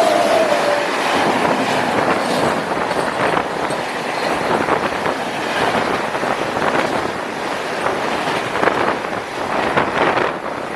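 Passenger train running along the track, a steady loud rush of wheel-on-rail noise with faint irregular clacks. A short falling tone fades out in the first second.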